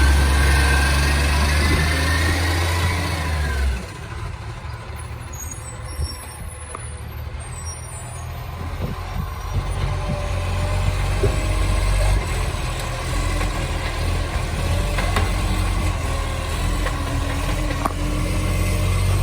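Garbage truck engine running loud with a massive exhaust leak, a heavy low rumble that drops off about four seconds in and builds up again around ten seconds. A faint rising whine is heard in the first few seconds.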